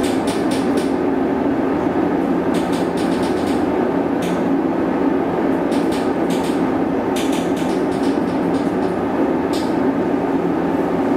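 Wort at a rolling boil in a stainless-steel electric brew kettle: a steady rumbling bubble with clusters of popping every second or two. The boil pulses as the controller pulses the heating element.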